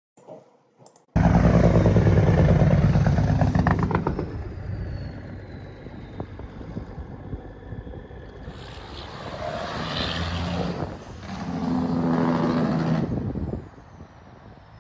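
Semi-trucks' diesel engine brakes (Jake brakes): a loud, rapidly pulsing engine-brake rattle cuts in about a second in and fades out by about four seconds. A second truck's engine brake rises about eight seconds in and stops near the end.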